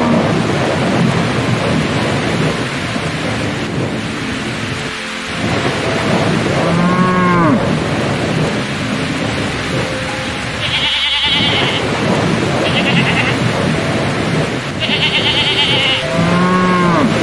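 Steady heavy rain with thunder, with farm animals calling twice over it, each call about a second long, and short, high chirring bursts in between.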